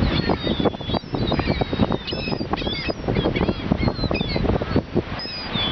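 Seagulls calling: many short squealing calls overlapping, over a steady low rumble of wind on the microphone.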